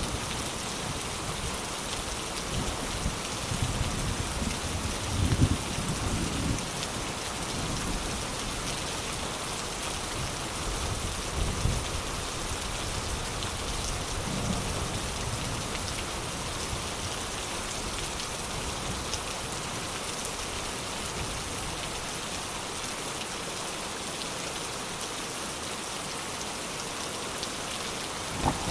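Steady rain falling, a continuous even hiss of drops. Soft rumbles of distant thunder swell and fade several times in the first half.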